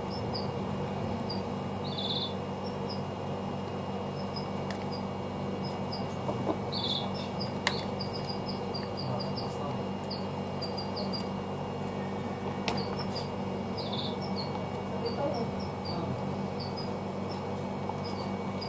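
Steady low hum with short, high bird chirps repeating throughout, three of them louder. A few light clicks of phone parts being handled.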